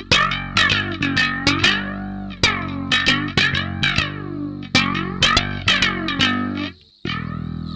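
Rock music: bass guitar and guitar playing a run of sharply plucked, ringing notes. The playing breaks off for about half a second near the end, then starts again.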